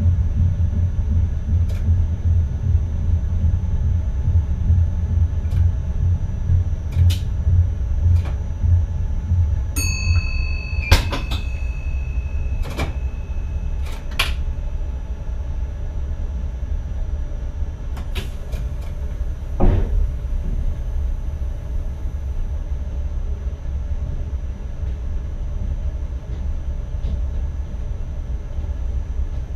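NS ICM electric intercity train heard from the driver's cab while running: a steady low rumble with a faint high whine, scattered clicks and knocks, and a sharper knock about 20 seconds in. About 10 seconds in a tone sounds for roughly four seconds.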